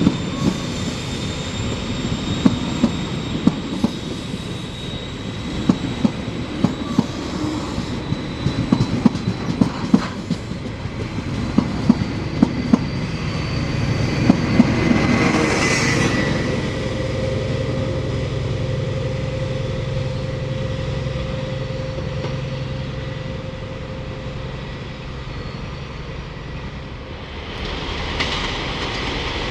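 Train running along the track, its wheels clicking irregularly over rail joints with a faint high steady whine. About halfway it swells loudest and then settles into a steadier hum with a few held tones, rising again near the end.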